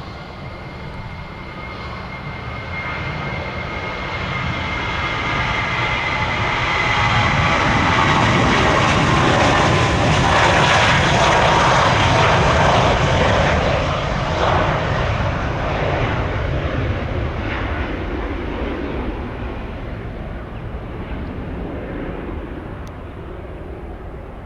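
Jet airliner passing by: engine noise swells to a peak about halfway through and then fades, with the engines' whine sliding down in pitch as it goes past.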